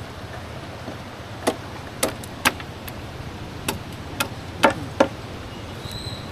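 About seven sharp knocks at uneven intervals, typical of hand tools striking while wet cement is worked into a wall form, over a steady low background rumble.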